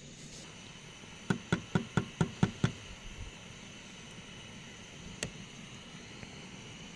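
A quick run of seven sharp knocks, about five a second, then a single knock a few seconds later, over a faint steady hiss.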